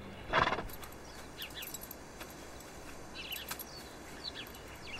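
Quiet outdoor ambience with a few brief, high chirps from small birds scattered through it, and a short louder burst of noise about half a second in.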